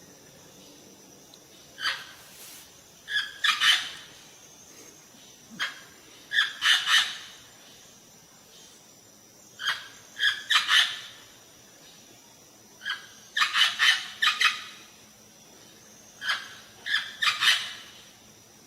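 A bird calling in repeated short phrases: a single note, then a quick run of three or four sharp calls, about every three seconds.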